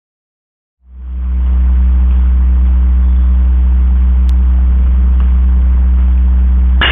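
The sound drops out, then a loud, steady low hum fades in within about a second and holds without change. A sharp click comes near the end.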